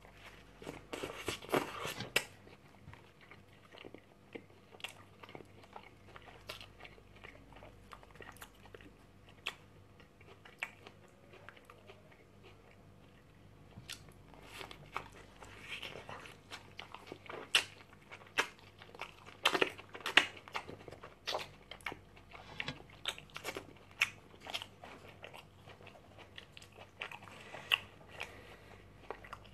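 Close-up biting and chewing of a McDonald's Royal Deluxe burger: many short wet mouth clicks and smacks. They are dense around a bite at the start and again through the second half, and sparser in between.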